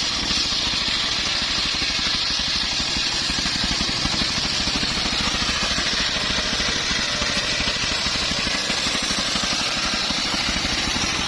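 Homemade band saw sawing a teak log: a steady machine drone with a continuous high hiss from the blade cutting the wood.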